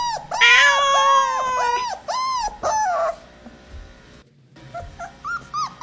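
A dog giving quick high-pitched whining yelps, about three or four a second, that stop about three seconds in and start again near the end.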